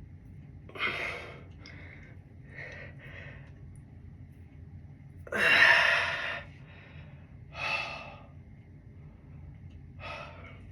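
A person breathing hard: about six separate exhales and gasps, the loudest about halfway through, the heavy breathing of someone straining through an arm workout.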